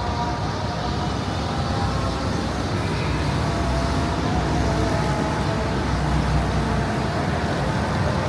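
Steady street traffic noise: vehicle engines running and passing in a continuous low rumble, with faint steady engine hums over it.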